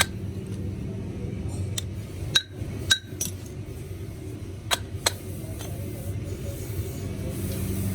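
Several sharp clinks of hard metal parts knocking together, over a steady low hum.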